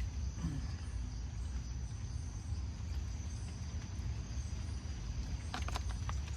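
Crickets chirping steadily in the forest at night, over a constant low rumble. A few sharp clicks come near the end.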